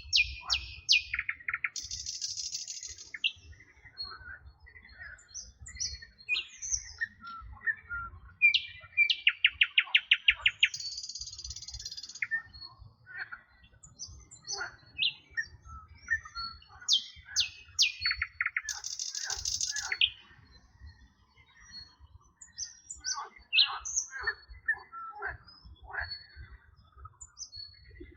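Several songbirds singing together: overlapping chirps and whistled phrases, with a fast run of repeated notes about nine seconds in and a buzzy, rasping note that comes back three times.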